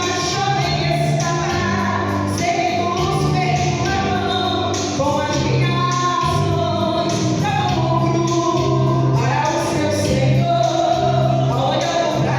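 Gospel music: a vocal group singing together over instrumental accompaniment with a steady bass line.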